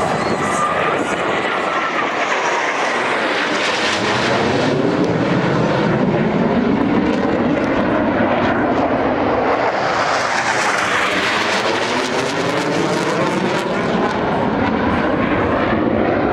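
Blue Angels F/A-18 jets flying past, a loud, continuous jet-engine roar whose tone sweeps up and down as the aircraft pass.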